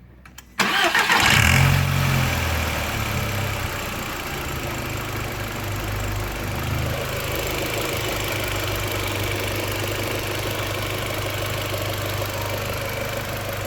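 Audi TT's 1.8-litre turbo four-cylinder (AUQ) engine restarted warm: it catches about half a second in, flares up briefly, then settles into a steady idle.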